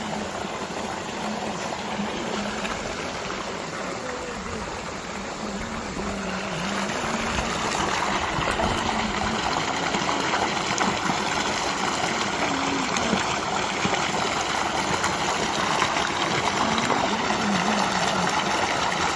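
Running water of a stream rushing steadily, getting louder about seven seconds in.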